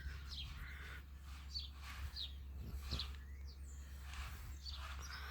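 Small birds chirping: many short, high, falling chirps a fraction of a second apart, over a steady low hum.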